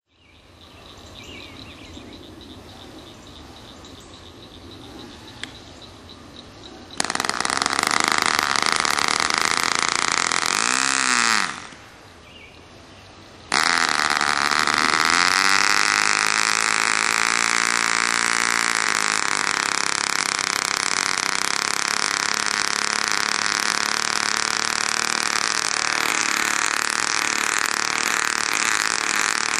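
Model glow engine of a vintage Du-Bro Whirlybird 505 RC helicopter starting abruptly about seven seconds in, dropping away briefly, then starting again and winding up in pitch as the rotor spins up before settling to a steady high-pitched run.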